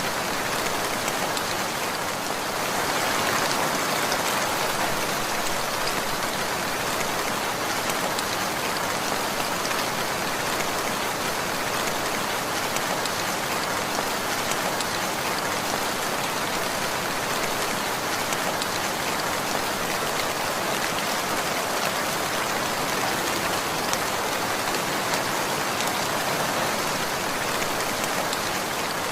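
Steady rainfall pattering on a surface, a dense even hiss with many fine drop ticks.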